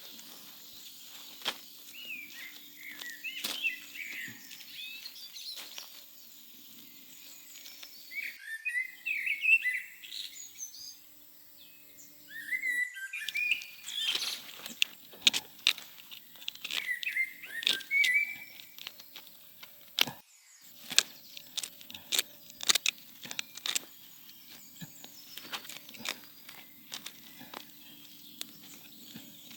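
Small birds chirping in short bursts, mixed with scattered sharp clicks and knocks and a faint steady low hum.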